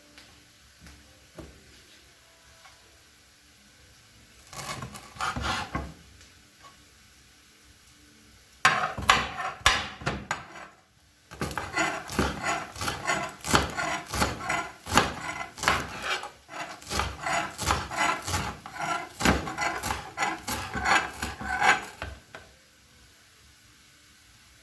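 Quick, repeated rasping strokes from food being worked by hand in the kitchen: a short run, a pause, then a long steady run of about three to four strokes a second that stops a couple of seconds before the end.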